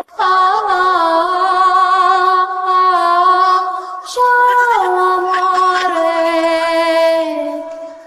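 A high voice sings long, wavering held notes in two phrases, the second starting about four seconds in, with the pitch stepping down as each note is held.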